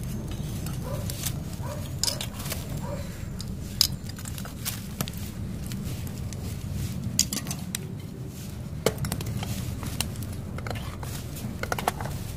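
Metal cookware clinking and knocking now and then, with a few short ringing tones in the first few seconds, over a steady low rumble.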